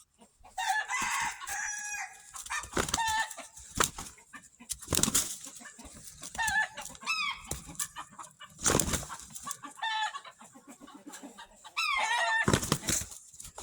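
Rooster clucking and giving short, falling calls, with one longer held call about a second in. Three loud brief thumps or rustles come in between.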